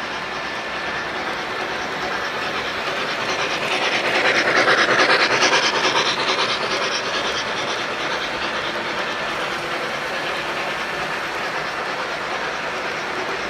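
Model trains running on a layout: the steady whirr and clatter of wheels on track and running motors, growing louder as a train passes close by about four to six seconds in, then settling back.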